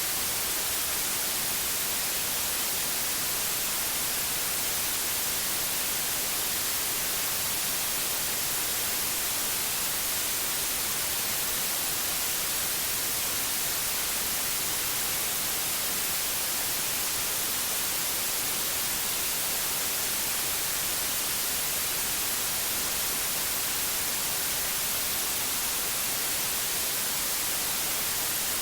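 Steady synthetic white noise: an even, unbroken hiss, brightest in the treble, with no changes.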